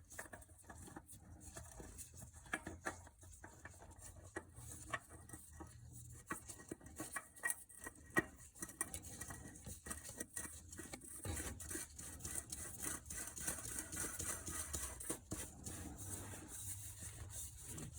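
Faint, scattered light clicks and rubbing as a new oil filter is spun onto its threaded mount by hand.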